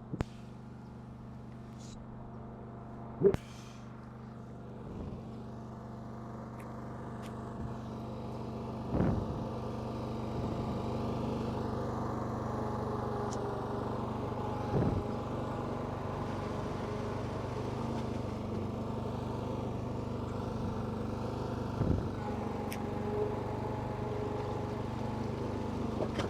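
Lawn mower engine running steadily, growing louder over the first ten seconds or so, with a short sharp knock about every six or seven seconds.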